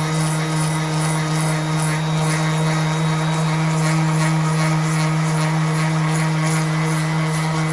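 Bauer 5-inch random orbital palm sander running at a steady speed, a loud even motor hum.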